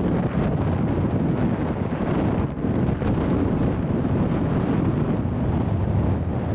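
BNSF grain train rolling past with a steady low rumble, mixed with wind buffeting the microphone.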